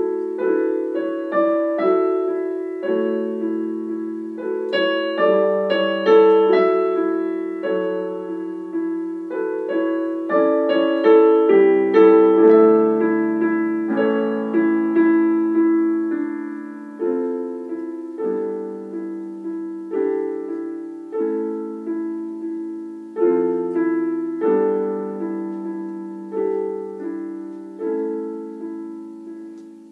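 Solo piano playing a slow, gentle piece in the middle register, with chords and single notes struck about once or twice a second and each left to ring and fade.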